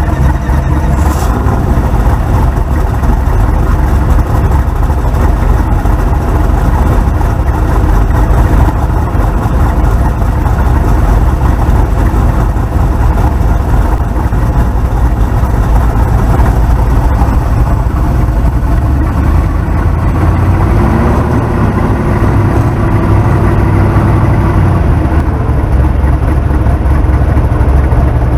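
A car's engine and exhaust running steadily and loud with a deep drone, the sound of cruising along a street.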